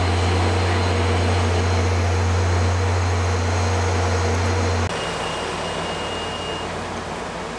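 VIA Rail diesel-hauled passenger train rolling past on the track: a steady, loud low hum and rumble. About five seconds in the hum cuts off abruptly, leaving a quieter rumble that slowly fades.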